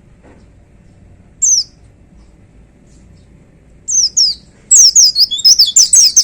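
Pleci (white-eye, Zosterops) singing in high, sharp falling notes. One note comes about a second and a half in, then two a little before the middle. Near the end a rapid, loud run of falling notes follows: the bird's 'shooting' burst.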